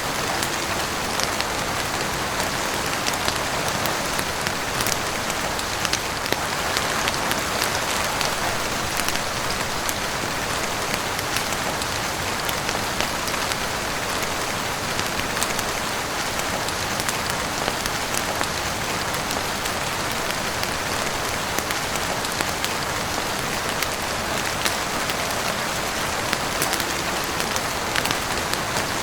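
Heavy rain falling steadily on a roof and windows: a constant even hiss with many scattered sharp ticks of drops.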